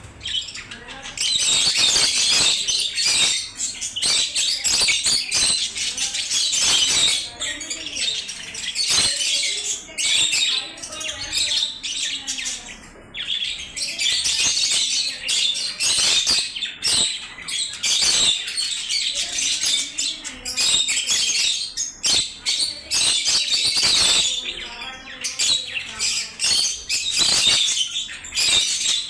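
Many lovebirds chirping and chattering at once: a continuous, high-pitched din of overlapping calls with only brief dips.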